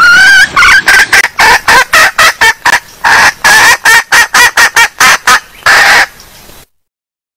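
Junglefowl hen calling, played as a lure call: a rising opening note, then a rapid run of short clucks, about three to four a second, that stops abruptly near the end.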